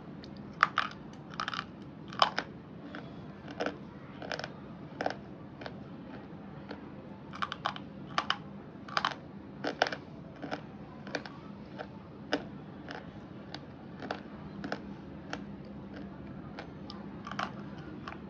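Brittle slate pencil pieces crunching as they are bitten and chewed, in about two dozen short, sharp cracks at an uneven pace.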